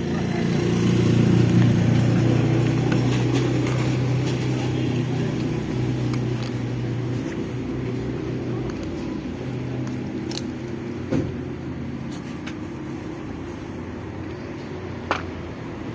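A motor vehicle's engine running with a steady low hum, loudest in the first couple of seconds and slowly fading away. A few sharp clicks come through late on.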